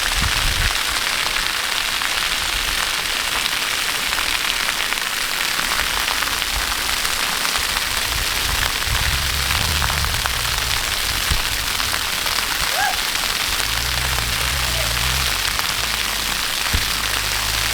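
Waterfall: a loud, steady rush of falling water, with low rumbling coming and going in the second half.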